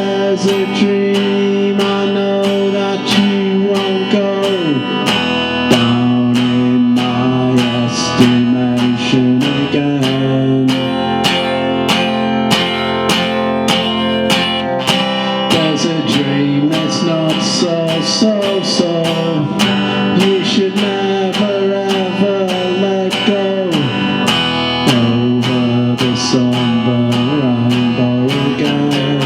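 Solo acoustic guitar strummed in a steady rhythm, playing a bluesy instrumental passage. Now and then a note slides down in pitch.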